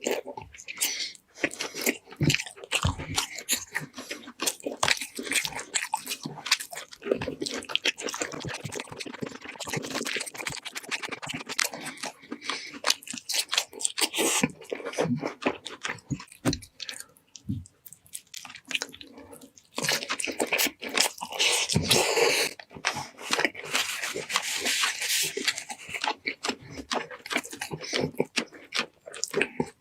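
Close-miked eating of roast chicken and pork shank: a steady run of crunchy bites and chewing, with a brief lull about two-thirds of the way in.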